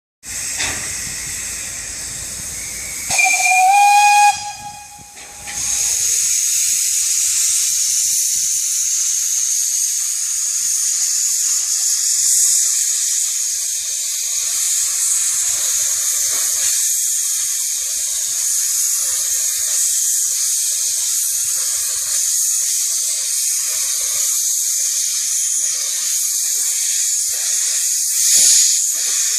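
Narrow-gauge Vale of Rheidol Railway steam locomotive departing: one whistle blast about three seconds in, lasting just over a second, followed by a steady hiss of escaping steam.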